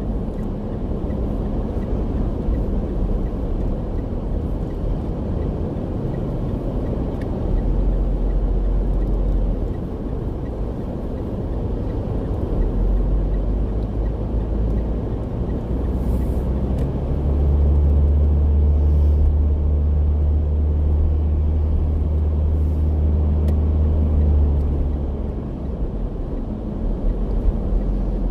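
Car driving, with steady road and engine rumble heard from inside the cabin. A louder, deeper drone swells in the middle for several seconds and then settles back.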